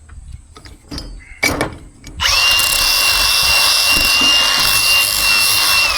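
Grinder fitted with a flap disc (flapper wheel) starting up about two seconds in and running with a steady high whine over a loud rasp as it grinds metal, beginning to spin down at the very end. A few light knocks before it starts.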